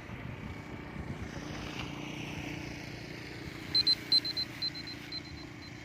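Wind buffeting the microphone with a faint steady hum, then a quick run of short high-pitched electronic beeps about two-thirds of the way in, growing fainter and sparser.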